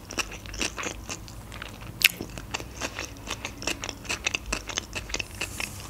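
Close-miked chewing of a mouthful of sushi roll: a string of short, irregular mouth clicks, with one sharper click about two seconds in.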